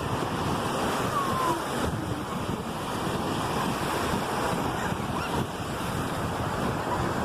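Ocean surf washing steadily onto the beach, with wind buffeting the phone's microphone.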